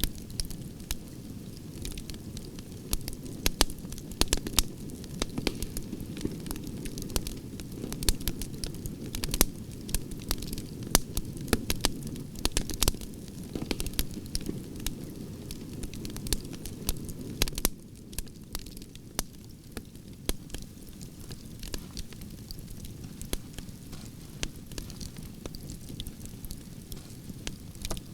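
Branches burning in a campfire, crackling and popping with many sharp snaps over a steady low rushing sound of the flames. A little past halfway the pops thin out and the fire gets somewhat quieter.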